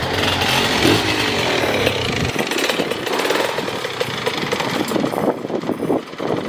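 Enduro dirt bike engines revving hard, their pitch rising and falling with the throttle. In the second half the revving turns choppy in short on-off throttle bursts.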